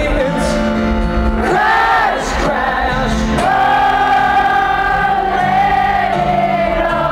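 A rock band playing live with sung vocals, and one long held note in the middle.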